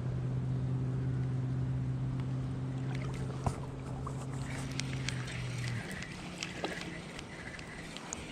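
A small boat motor hums at a steady, constant pitch, then cuts off suddenly about six seconds in. Light scattered clicks and ticks follow.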